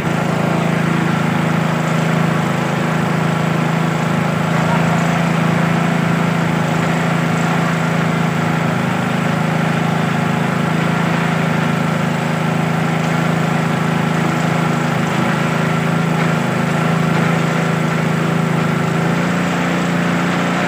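Small petrol-engine water pump running steadily at constant speed while it drains the water.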